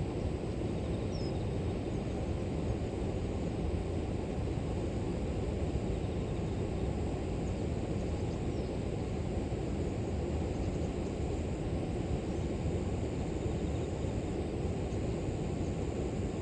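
River water flowing in a steady low rush. A faint, steady high insect trill runs above it, and a bird chirps faintly a couple of times.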